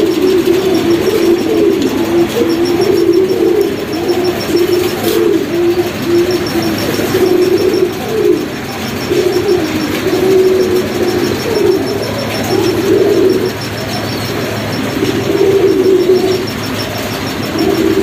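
Birds cooing continuously in a low, wavering chorus.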